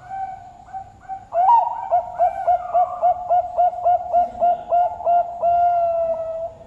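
Zebra dove (Bangkok perkutut) singing its cooing song: a few opening coos, then a fast run of short clipped coos, about four a second, ending in one long held coo.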